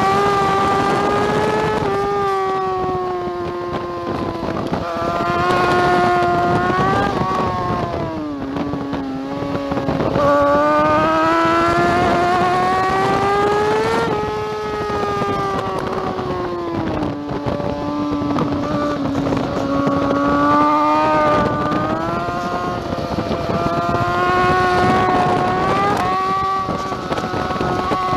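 2009 BMW S1000RR superbike's inline-four engine at racing revs, heard on board. Its pitch dips and climbs with the corners, with a long steady climb through the middle, a sharp drop about halfway, and small steps up and down near the end.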